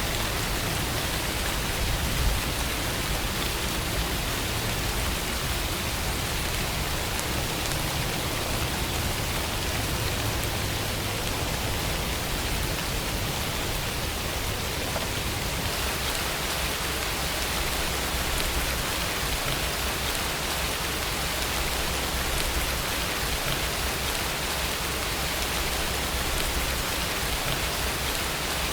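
Steady rainfall, a continuous even hiss of rain; its tone shifts slightly about halfway through.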